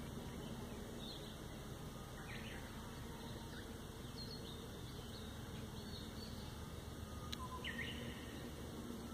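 Forest ambience: a few short, scattered bird chirps over a steady low background hiss, with a single sharp click about seven seconds in.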